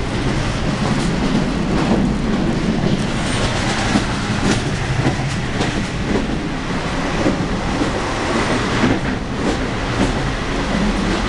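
Running noise of a passenger sleeper train heard from inside a carriage: a steady rumble with frequent irregular knocks and rattles.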